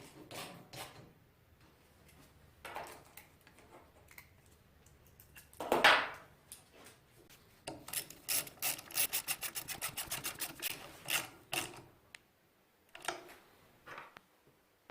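Hand tools at work on a small two-stroke engine being reassembled: scattered clicks and knocks, one sharp knock about six seconds in, then a fast run of clicks lasting about four seconds.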